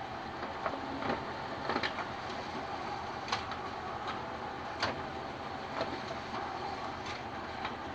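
Kyocera M2040DN multifunction printer's automatic document feeder running a two-sided scan: a steady mechanical whirr with a faint steady tone and scattered sharp clicks as the pages are fed. It runs without its usual squeak, the eccentric gear, bushing and bolt behind it having been removed.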